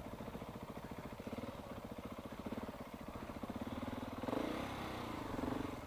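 KTM 690's single-cylinder engine running at low revs, a steady chugging of firing pulses, picking up briefly about four seconds in.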